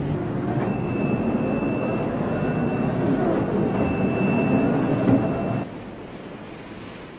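Loud rumbling ship noise with a steady high-pitched tone over it for about five seconds. Both cut off suddenly near the end.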